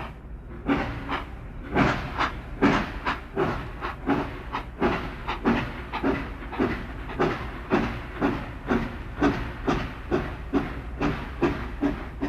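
Steam locomotive working, its exhaust chuffing in an even rhythm of about two beats a second.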